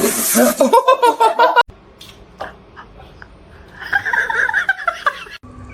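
People laughing loudly, cut off abruptly about a second and a half in. A quieter stretch with a few soft knocks follows, then a short high-pitched vocal sound about four seconds in.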